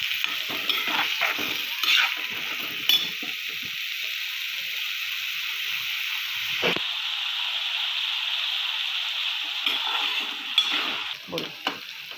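Diced potatoes and green chillies sizzling in hot oil in a kadhai, with a steel spatula scraping and knocking against the pan as they are stirred. The stirring eases off in the middle, leaving a steady sizzle with a single knock about halfway, then the scraping picks up again near the end.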